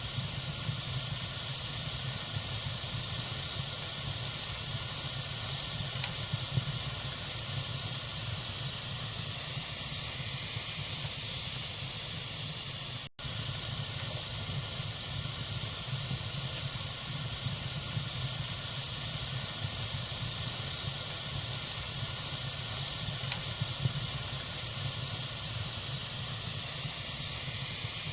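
Wood fire burning in a fireplace: a steady hiss with a few sharp crackles and pops, and a momentary break in the sound about halfway through.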